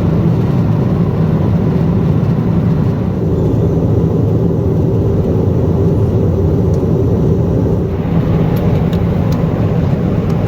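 Steady low cabin noise of a Boeing 777-200ER jet airliner in flight, from its engines and the air rushing past. A few faint clicks come through in the second half.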